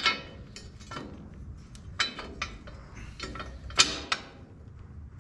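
Metal parts of a windrower clanking and clinking as they are handled and fitted: a few sharp knocks with a short ringing tail, the loudest two close together about four seconds in.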